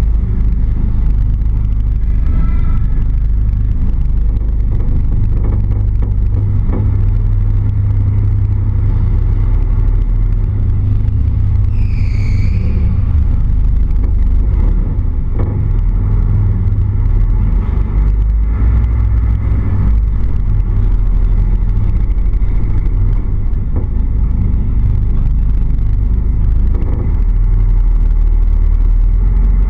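Car engine and exhaust rumbling steadily at low speed in an underground car park, heard close up from the bonnet. There is a brief high squeal about twelve seconds in.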